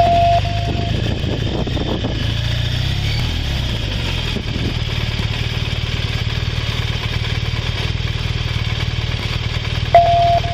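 Police motorcycle engine running steadily at low speed, heard from the rider's body camera. A short beep sounds at the start and again near the end.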